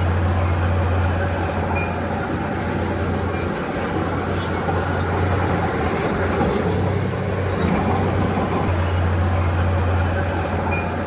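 Bulldozer diesel engine running under load, its low hum swelling and easing every few seconds as it works, with faint high squeaks now and then.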